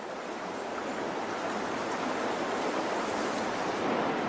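Steady rush of flowing stream water, slowly growing a little louder.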